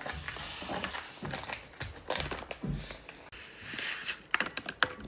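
Rustling and crinkling with scattered small clicks and knocks, like things being handled.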